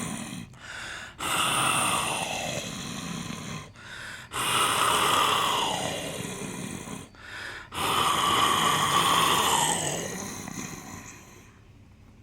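A man imitating a tiger with his own voice: long raspy growling roars, each starting loud and sliding down in pitch, three in a row with short breaths drawn in between, then fading out near the end.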